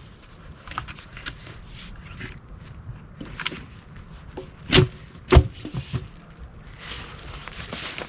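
Fiskars splitting axe striking a stubborn black cherry log: two sharp, heavy knocks about half a second apart, midway through, with shuffling footsteps and rustling around them.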